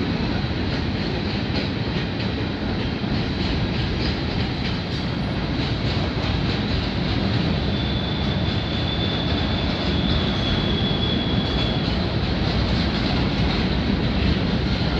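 Canadian Pacific freight train's flat cars rolling past close by: a steady rumble of steel wheels on rail with clacking over the rail joints. A thin high squeal of wheel on rail runs for about four seconds in the middle.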